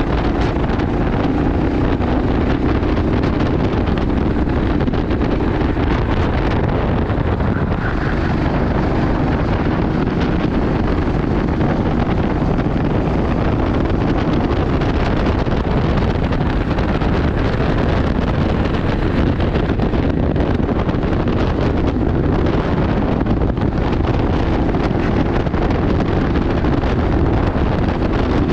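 Steady wind noise buffeting the microphone, a loud, even rumble with no breaks.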